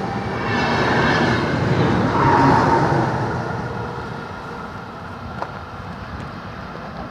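A white-and-green passenger train running past along the platform, its wheels rumbling on the rails with a faint high whine in the first seconds. The noise dies away steadily over the last few seconds as the train pulls into the distance.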